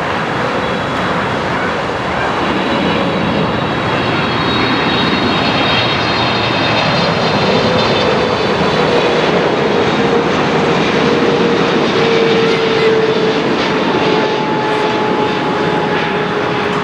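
Boeing 777-300ER's GE90 jet engines running loud and steady, with a few whining tones that fall slowly in pitch.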